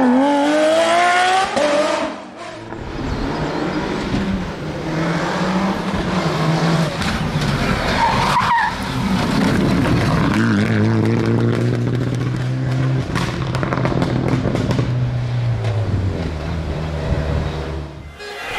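Rally car engine revving hard, its note rising, then breaking off about two seconds in. Engine and skidding tyre noise follow, with a steady low engine note through the second half.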